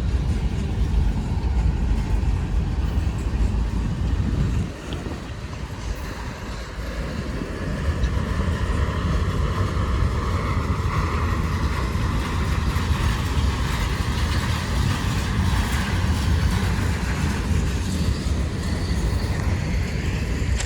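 Freight cars of a manifest train rolling past, a steady rumble of steel wheels on rail that drops away briefly about five seconds in.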